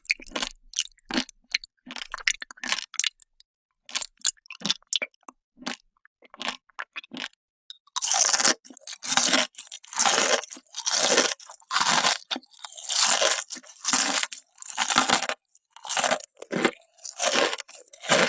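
Close-miked crunching and chewing of candy: sharp single crunches at first, then from about eight seconds in louder, quicker crunching bites, roughly two a second.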